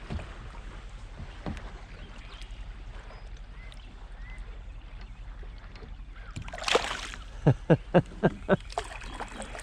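Water around a kayak: quiet lapping, then a splash about seven seconds in followed by a quick run of small watery plops.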